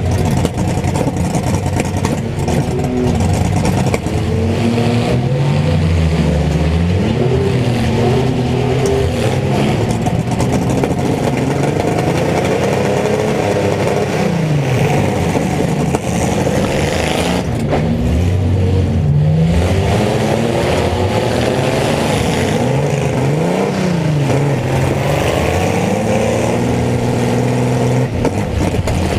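Several mini truck engines running at once, revving up and down in overlapping pitches, with some clatter.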